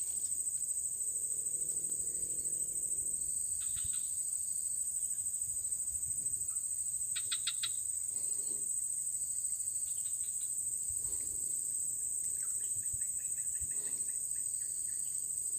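Insect chorus of crickets or cicadas giving a steady high-pitched drone, with a few short bursts of rapid chirping breaking in now and then.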